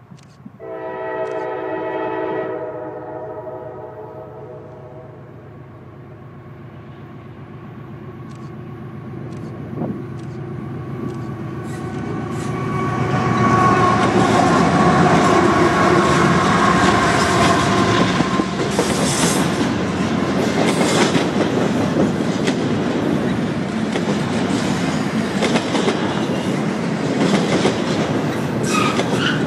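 A locomotive air horn sounds one blast of about two seconds that trails off. Then a long CSX freight train approaches and passes close by: a building rumble turns into steady wheel and rail noise, with clickety-clack from the wheels over the rail joints.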